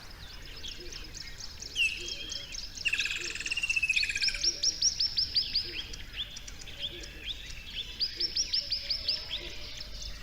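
Wild birds singing: a warbling phrase about three seconds in, then two fast runs of high, downward-sliding chirps, several a second, over faint outdoor background.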